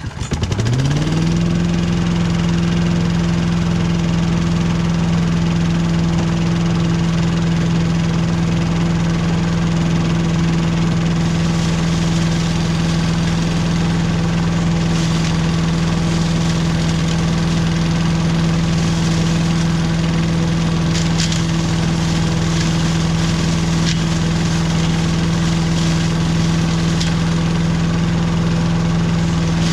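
Billy Goat Estate leaf vacuum's gas engine and fan spinning up to full speed within about a second, then running at a steady, loud pitch. A few faint clicks appear over it in the second half.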